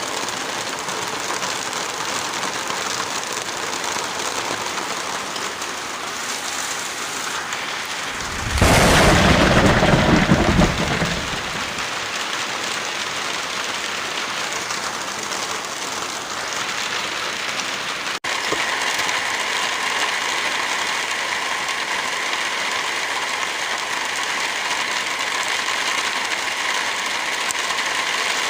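Steady heavy rain, with a loud clap of thunder about eight and a half seconds in that rumbles for about two seconds. About eighteen seconds in the sound breaks off for an instant, and the rain resumes with a slightly different tone.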